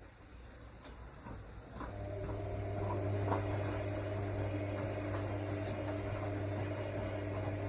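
AEG Lavamat L62850L washing machine: after a few faint clicks, a steady low hum starts about two seconds in and holds, with light ticks over it.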